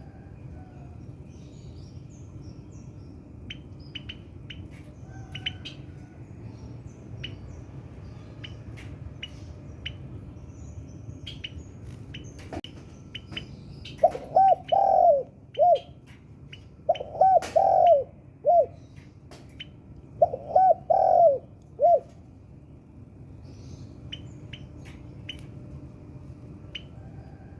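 Spotted dove (tekukur) cooing: three phrases of several swelling coos, starting about 14, 17 and 20 seconds in. Short high chirps are scattered throughout, with a low steady hum beneath.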